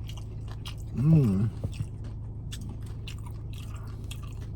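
Close-up chewing and crunching of nacho tortilla chips, many short crackly crunches. A brief hummed vocal sound from the eater about a second in.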